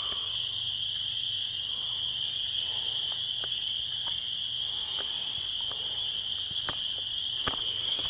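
Steady chorus of night insects: a continuous high-pitched trill, with a few faint ticks scattered through it.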